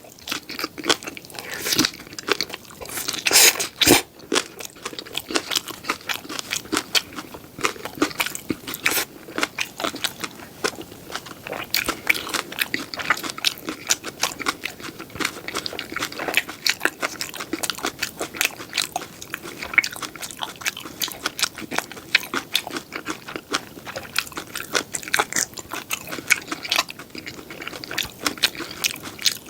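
Close-miked chewing and biting of seafood pajeon, a Korean seafood and green-onion pancake, with a steady run of small wet, crackly clicks. A louder stretch of crunching comes about three to four seconds in.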